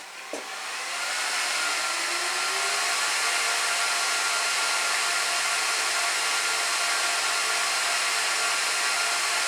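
Cooling fans of a Gigabyte R180-F34 1U rack server spinning up at power-on: a click, then a rising whine that settles into a loud, steady rush of air as the server starts its boot.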